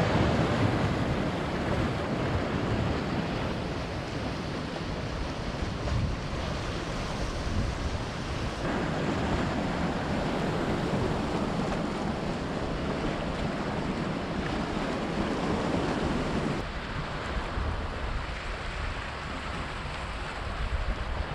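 Steady rushing of surf with wind buffeting the microphone. The sound changes abruptly twice, about 9 and 17 seconds in.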